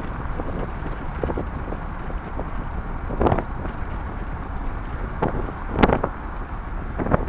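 Steady wind rush and road rumble from a car on the move, broken by a few brief louder buffets.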